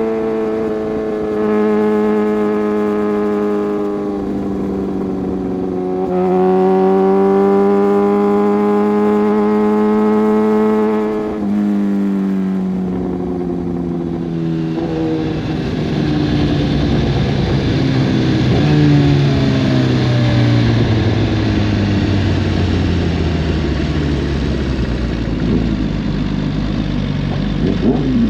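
Inline-four superbike engine and exhaust held at high revs on the move, the pitch dipping briefly and climbing back. From about twelve seconds in, the revs fall steadily for some ten seconds as the bike slows, ending in lower, rougher running.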